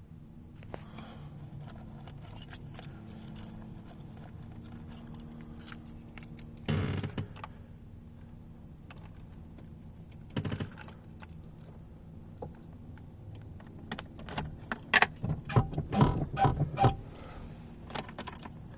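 A bunch of keys jangling and clacking, with short bursts about a third and halfway through and a run of loud sharp clacks near the end, over a faint steady hum.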